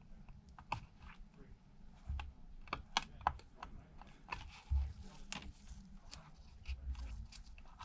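Scattered light clicks and taps, irregular and spaced out, from a small tool and fingers reconnecting antenna flex cables inside an opened iPad, with a few soft low bumps.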